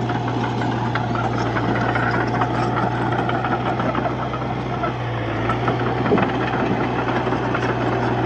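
Komatsu D31P bulldozer's diesel engine running steadily at a constant throttle, its low note dipping slightly about five seconds in.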